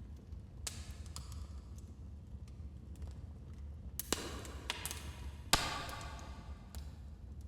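Wood fire in a fireplace crackling: scattered sharp pops and snaps over a low steady rumble, with a cluster of louder cracks in the second half, the loudest about five and a half seconds in.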